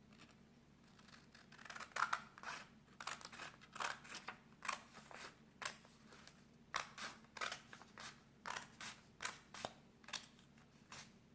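Scissors cutting a sheet of printer paper in a run of short snips, about two a second, starting about two seconds in: trimming the excess strip off to leave a square.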